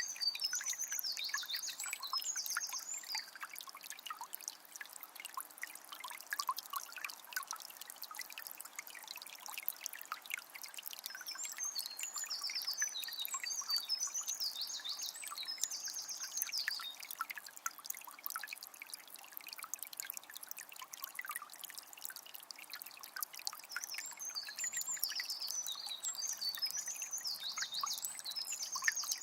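Small spring trickling and splashing steadily. A songbird sings three phrases of quick, high, repeated notes: near the start, midway and near the end.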